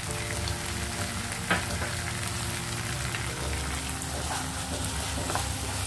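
Tomato-onion masala sizzling gently in a kadai while a wooden spatula stirs chilli powder through it, with soft scraping and a light knock of the spatula against the pan about a second and a half in.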